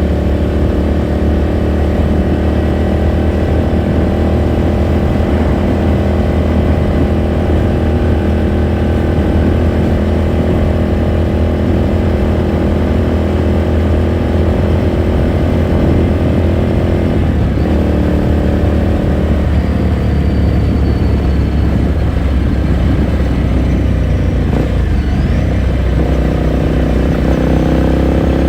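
Ducati Scrambler Sixty2's air-cooled 399 cc L-twin heard onboard through its exhaust, running steadily at cruising speed. About two-thirds through the note drops and goes rough for several seconds as the throttle eases, then climbs again near the end as the bike picks up speed.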